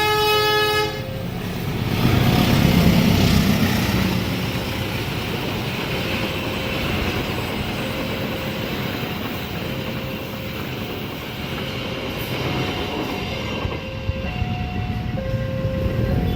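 A train horn sounds for about the first second, then a train runs past with a loud rumble of wheels on rail that eases gradually. Under it, the level crossing's electronic warning alarm keeps sounding, an alternating two-note beep that comes through more clearly near the end.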